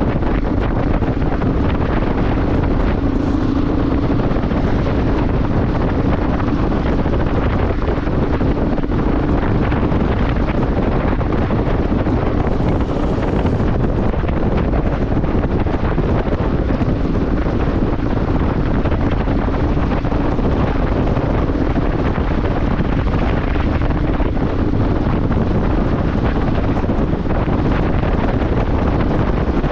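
Wind buffeting the microphone of a moving motorcycle, a loud steady rush, with the bike's engine as a steady hum underneath.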